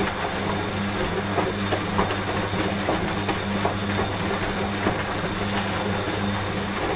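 A washing machine running with a steady low hum, over a continuous hiss of rain with scattered ticks of drops.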